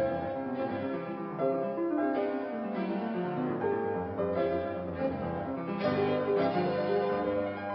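Background music: old recorded piano music with a steady run of chords, in a muffled, narrow-band recording.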